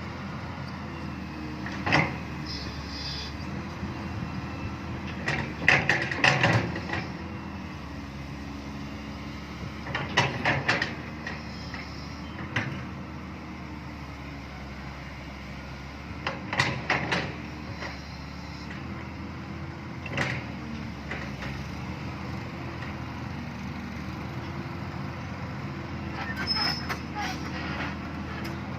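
Excavator's diesel engine running steadily, its pitch drifting up and down as the hydraulics take load. Sharp knocks and clatters come every few seconds.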